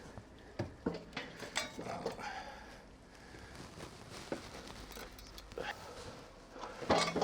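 Scattered light knocks and clicks of tools and parts being handled, with a brief low hum right at the start and again near the end.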